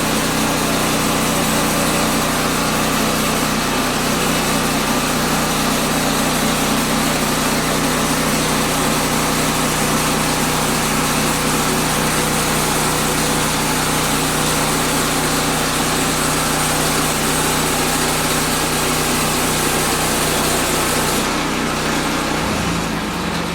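A portable bandsaw mill's small gas engine runs steadily, with a dense hiss over it as the band blade cuts through a pine log. Near the end the cutting hiss fades and the engine note changes.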